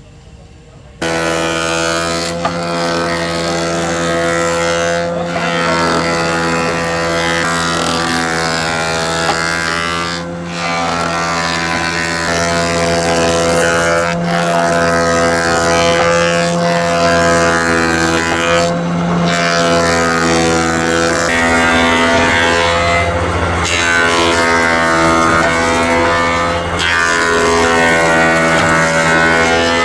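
A woodworking machine's motor running steadily with a strong hum, starting abruptly about a second in, its pitch wavering slightly as the load changes and broken by a few brief cuts.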